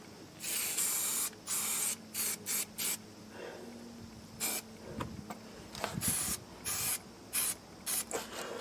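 Aerosol can of edge primer spraying. It gives one longer burst of hiss, then a string of short bursts.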